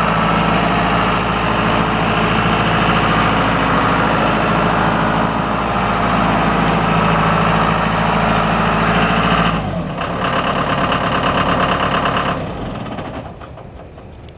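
John Deere 5100E tractor's diesel engine running steadily. A little over two-thirds of the way in the low engine note drops away, leaving a higher rhythmic mechanical sound that fades out near the end.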